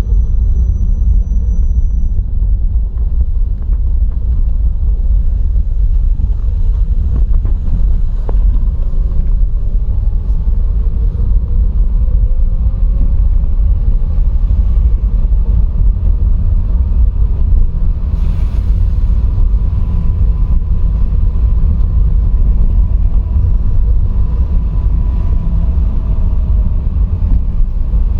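A vehicle on the move: a loud, steady low rumble of road and engine noise, with faint tones that slowly rise and fall.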